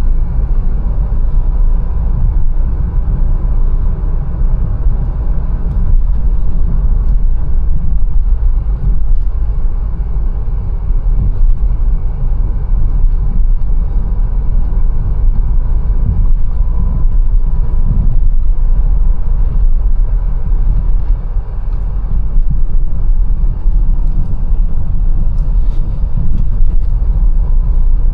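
Mercedes-Benz A180 driving on city streets: a steady low rumble of engine and road noise, with a faint steady whine running through it.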